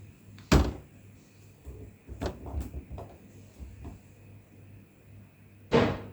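Two sharp thumps, about half a second in and near the end, with a run of softer knocks and taps between them.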